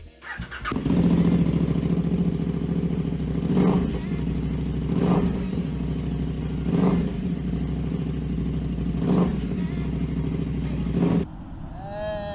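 Motorcycle engine running steadily under way, heard from on the bike, with four short sharp knocks spaced through it. It cuts off abruptly near the end.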